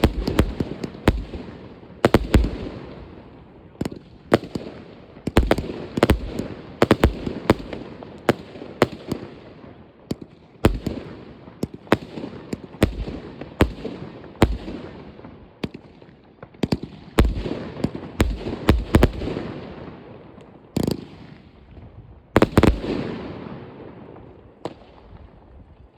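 Fireworks going off: many sharp bangs, often several in quick succession, each trailing off into an echoing rumble. The bangs thin out near the end.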